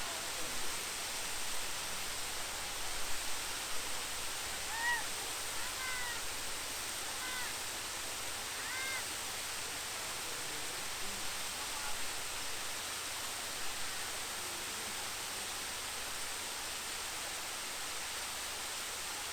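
Steady rushing of a waterfall. In the first half, a few short high calls from an animal, each rising and falling, come about once a second or two.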